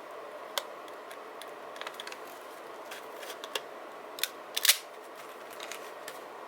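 Light clicks and taps of paper and stickers being handled in journal decorating, scattered over a steady low hiss, with a sharper cluster of clicks about four and a half seconds in.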